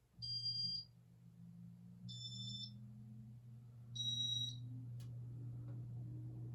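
Casablanca California Zephyr ceiling fan's electronic control giving three short high beeps, about two seconds apart. The motor starts humming with the first beep and steps up with each later one, its pitch rising slowly as the fan gains speed. A single click sounds about five seconds in.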